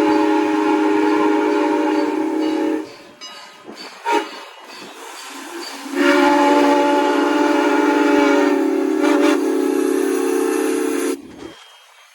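Steam locomotive No. 89's chime whistle blowing: a long blast that ends about three seconds in, a brief toot, then a longer blast of about five seconds.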